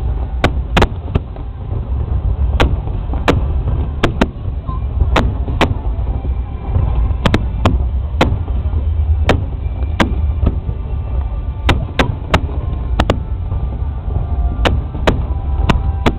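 Fireworks exploding in an irregular barrage of sharp bangs, about one or two a second, over a constant low rumble.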